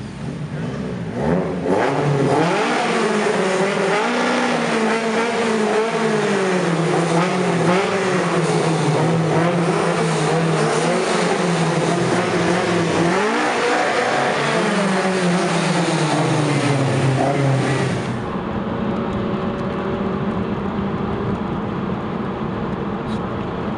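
A car engine revving up and down over and over, its pitch rising and falling with a few short holds. About eighteen seconds in it cuts to the steadier engine and road noise of a moving car, heard from inside the cabin.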